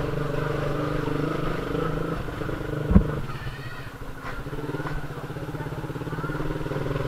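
Motorcycle engine running steadily at low riding speed. A single loud thump about three seconds in.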